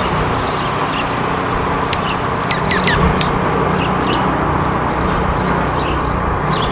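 Small songbirds chirping, with a quick run of short, downward-sweeping calls about two to three seconds in and scattered single chirps after, over a steady low background rumble.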